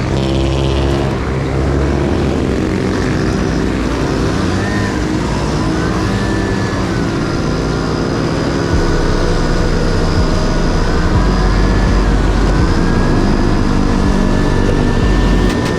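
Honda Dio AF18 50cc two-stroke scooter engine running under way, its pitch rising and falling with the throttle. A heavier low rumble joins about halfway through.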